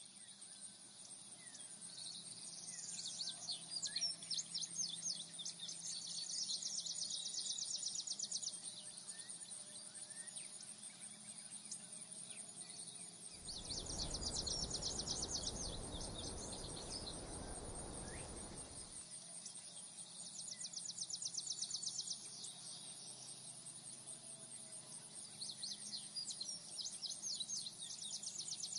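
Countryside nature sounds: a steady high insect drone with bouts of fast chirping and a few scattered bird calls. About halfway through, a rush of noise lasts several seconds.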